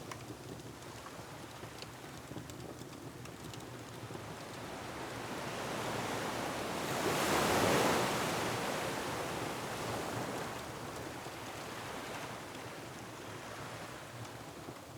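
Ocean waves surging against a rocky shore, one wave building and crashing about halfway through before washing back, with faint crackles from a wood fire.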